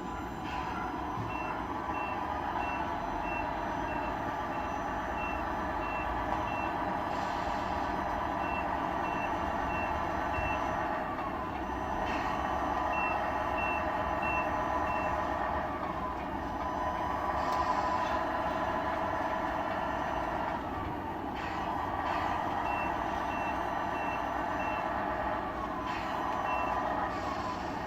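Tamiya radio-controlled model trucks' sound units playing a simulated truck engine that slows and revs up again every few seconds. Bursts of reversing beeps come at about two a second, with a couple of short hisses.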